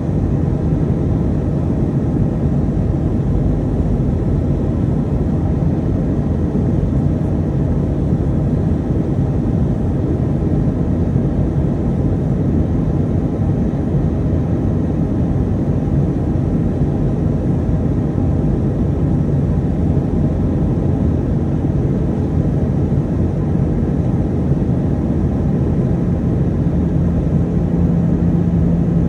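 Steady cabin noise inside an Airbus A320 airliner in flight: a low, even rush of engine and airflow. A steady hum comes in near the end.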